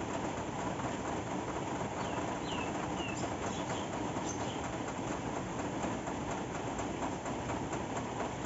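Steady rain falling, an even hiss with irregular drip taps. A couple of short high chirps come about two to three seconds in.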